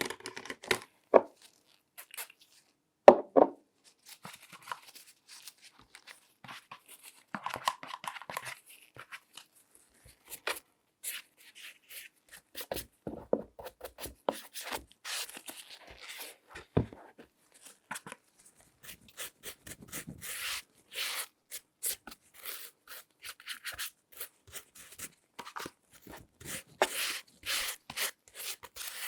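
Close-miked ASMR handling sounds from latex-gloved hands working over a shoe: irregular taps, clicks, short scratches and rustles, with two louder knocks about one and three seconds in.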